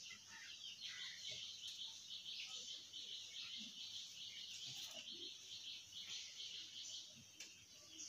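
A bird chirping faintly and rapidly, about four high chirps a second in a steady run that dies out near the end.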